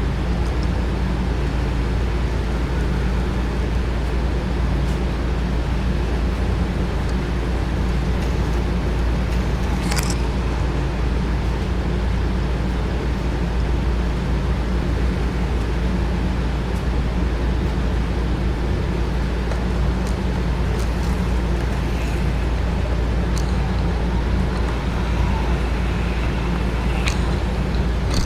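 Small electric motors of an HO model train and slot cars running on the layout: a steady low hum with a few faint clicks.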